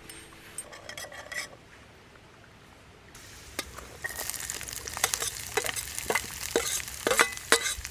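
A few light clicks, then food starts sizzling in a small pan about three seconds in, the sizzle growing louder as a utensil stirs and taps against the pan.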